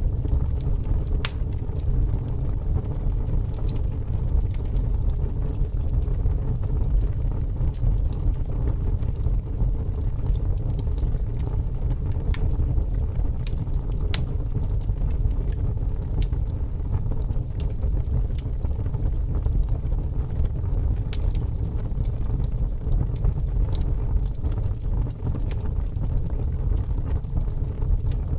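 Wood fire burning: a steady low rumble with scattered sharp crackles and pops at irregular moments.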